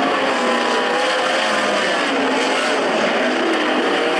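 Several 360 sprint cars' V8 engines running together, their pitch wavering up and down.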